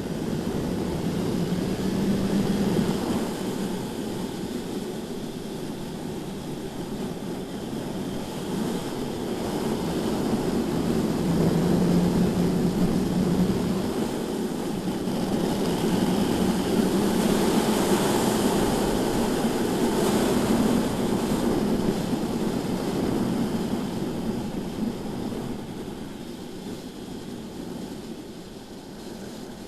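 BMW S1000RR inline-four engine running at track speed under heavy wind rush, its note rising and easing through the corners and dropping away near the end.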